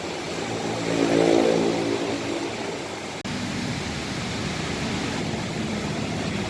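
Diesel engine of an intercity bus moving past close by: a steady pitched drone that swells loudly about a second in and then eases back to a steady rumble.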